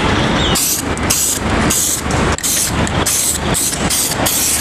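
Aerosol spray can of silver galvanising paint hissing in short repeated bursts, about two a second, as a wheel gets its top coat. A steady low rumble runs underneath.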